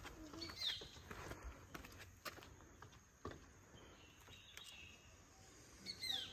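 Faint ambience: a few quick falling bird chirps, one about half a second in and one near the end, over light footsteps and scattered small clicks.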